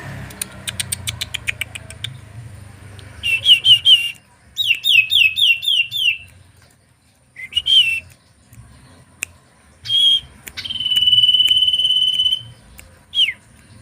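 A small songbird calling: a fast run of ticks, then quick groups of down-slurred whistled notes, single notes, a long steady whistled note of about two seconds, and a final falling note near the end.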